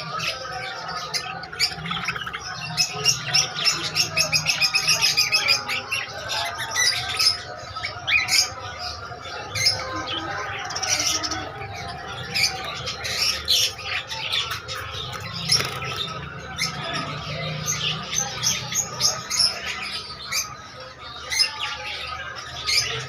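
Many small caged birds chirping and squawking together, with a quick run of sharp repeated calls about three to five seconds in.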